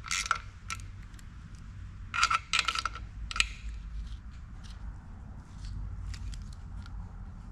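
Hand tools clicking and clinking against metal engine parts while fastening hardware: a few sharp metallic clicks in quick clusters in the first few seconds, then lighter scattered ticks, over a steady low rumble.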